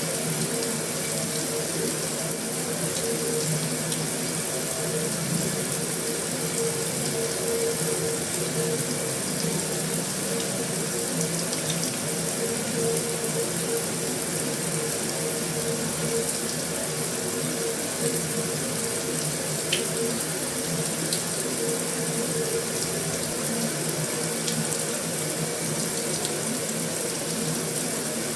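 Heavy rain falling steadily on a metal roof, an even hiss with a few faint sharper drop ticks.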